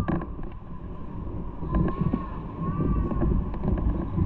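Motorcycle riding: engine running with a low rumble and wind buffeting the microphone.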